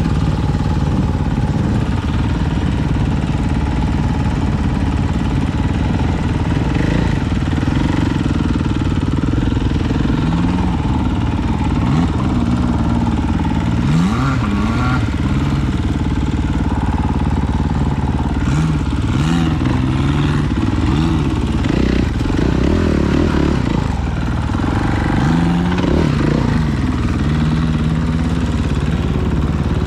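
Off-road vehicle engine running continuously while riding a trail, its pitch repeatedly rising and falling as the throttle is opened and closed.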